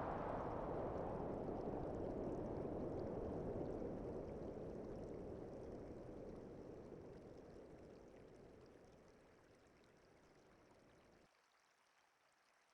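A steady rushing noise, like flowing water, that slowly fades over about ten seconds and cuts off near the end.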